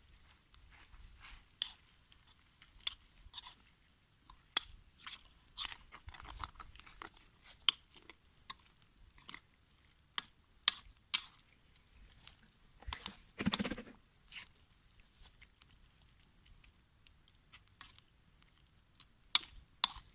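A utensil stirring and scraping sauce in a wok over a campfire: irregular clicks and scrapes, with a longer, louder scrape about two-thirds of the way through. Faint bird chirps come in briefly, twice.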